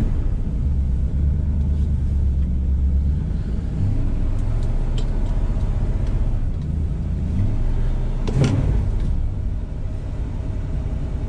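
Classic American car's engine idling with a low rumble as the car creeps in and out of a parking spot, the engine note shifting a few times. About eight seconds in there is a brief louder rush.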